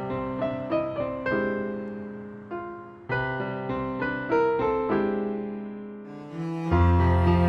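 Piano music: single struck notes and chords, each fading away after it is played. Near the end it gets louder and fuller, with a sustained low bass coming in.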